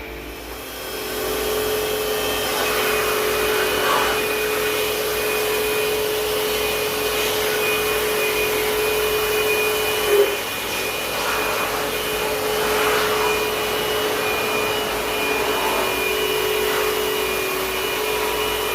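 A small electric motor running steadily with a whine, pausing briefly about ten seconds in: the noise of a motor-driven cleaning machine at work on an air-conditioner.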